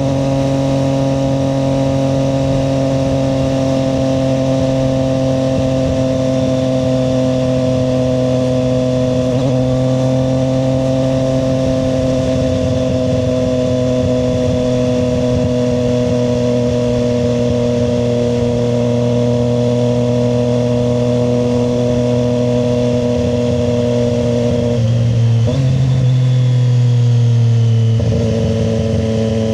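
Triumph Street Triple 765 RS's inline three-cylinder engine running under steady throttle on the road, its note sagging slowly. Near the end the note breaks and drops lower.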